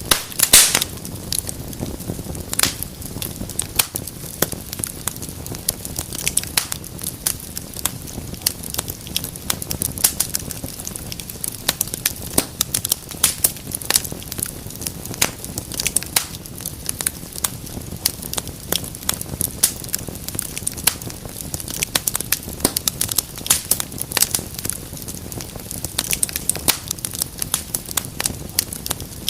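Wood fire burning in a fireplace, crackling and popping irregularly over a steady low rush of the flames, with one sharper pop about half a second in.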